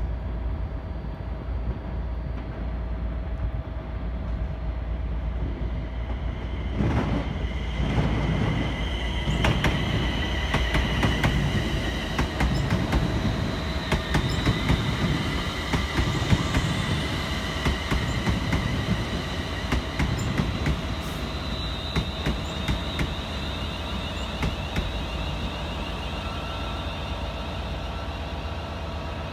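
London Northwestern Railway Class 350 electric multiple unit running past on the tracks, its wheels clicking over rail joints, with rumble and high steady tones. It gets louder about seven seconds in as the train comes close, then eases off towards the end.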